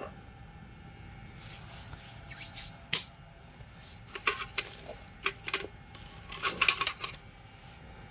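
Small tool parts being handled on a workbench: scattered clicks, taps and light clinks in short clusters, with a sharp click about three seconds in and a busier run of clatter near the end.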